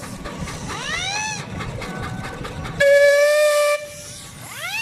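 Traction engine steam whistles: one swoops up in pitch about a second in, a louder steady whistle blows for about a second near the middle, and another rising whistle starts near the end, over a low rumble of running engines.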